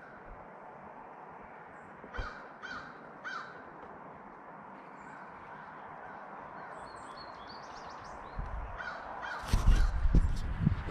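Three short harsh bird calls about half a second apart a little over two seconds in, with a few fainter calls later. In the last couple of seconds a loud low rumble with knocks covers them.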